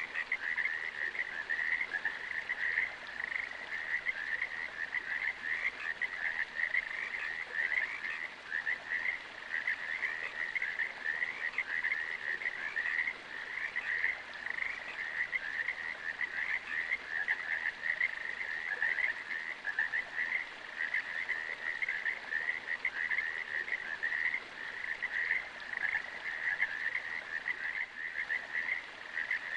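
A dense chorus of many frogs calling at once: an unbroken, pulsing trill held at one high pitch.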